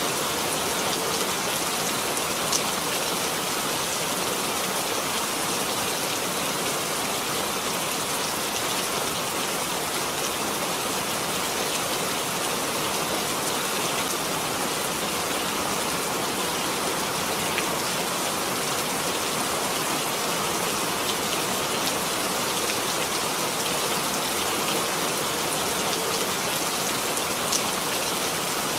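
Steady rain falling, an even hiss of many drops with a few sharper individual drop ticks.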